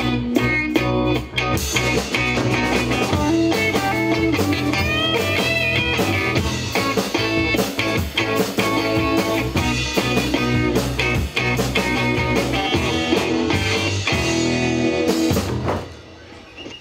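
Live rock band playing, with electric guitar over a drum kit; the music breaks off shortly before the end.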